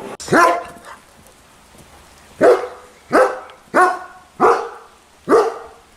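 A dog barking six times: a single bark, a pause of about two seconds, then five barks in quick succession.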